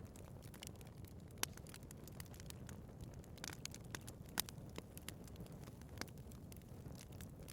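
Wood fire burning in a fireplace: a steady low rumble of flames with frequent sharp crackles and pops, two louder pops about one and a half and four and a half seconds in.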